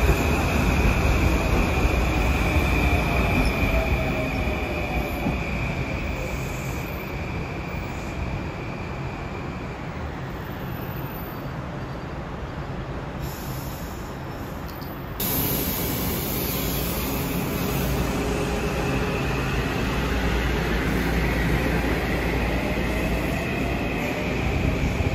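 Metro-North M8 electric multiple-unit trains running through a station: a steady rumble of wheels on rail with a high, steady whine through the first half and faint motor tones sliding in pitch. About fifteen seconds in the sound cuts abruptly to a louder passage of another M8, its motor whine rising in pitch near the end.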